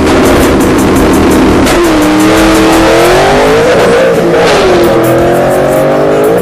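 A high-revving racing engine accelerating hard: its pitch climbs, falls back, then climbs again, with a sudden drop near the end like a gear change.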